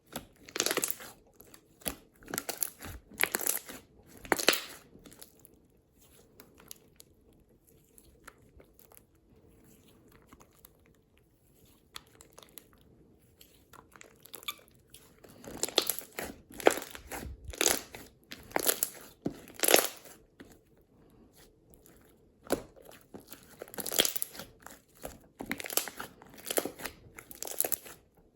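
Slime being squeezed, pressed and stretched by hand, giving clusters of crunchy crackles and pops. There is a quieter stretch in the middle.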